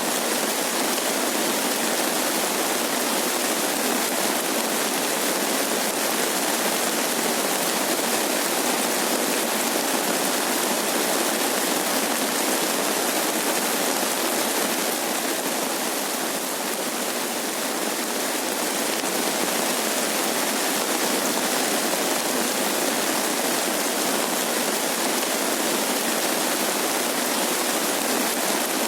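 Steady rain falling, an even dense hiss with no distinct drops or thunder, easing slightly for a moment just past the middle.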